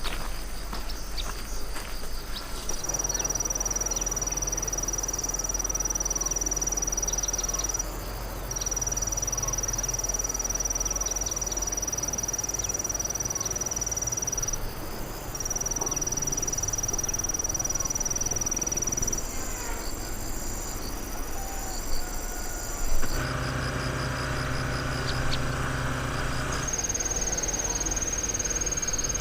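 Insects trilling: a steady high-pitched drone that holds for several seconds at a time, breaks off briefly and starts again, over a rustling outdoor background with a couple of knocks.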